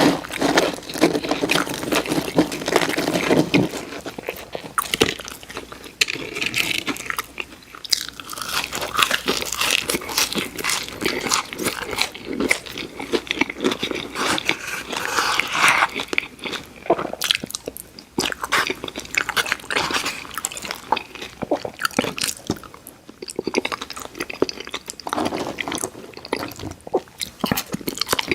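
Close-miked eating sounds: crunching and chewing, with sharp crackles of bites through crispy fried food.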